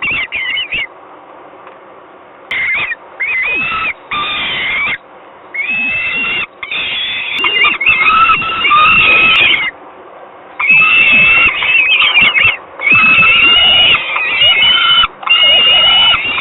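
Peregrine falcons at the nest calling loudly: a run of drawn-out screaming calls, each from half a second to about two seconds long, with brief pauses between them and a short lull early on.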